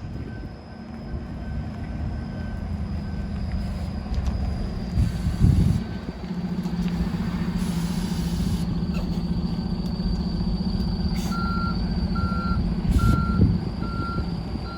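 Scania CN94UB bus engine running steadily while its reversing alarm beeps, faintly at first and then loudly and regularly near the end, about one beep a second. A short hiss of air is heard about eight seconds in.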